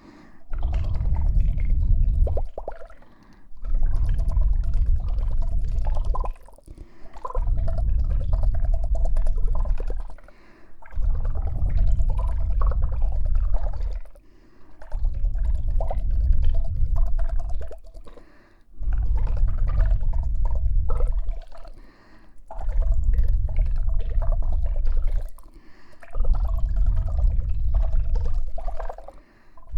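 ASMR ear trigger worked directly on a KU100 dummy-head microphone's ears: eight strokes of about three seconds each with short pauses between, each a deep close rumble with crackles, like something rubbed or pressed over the ear.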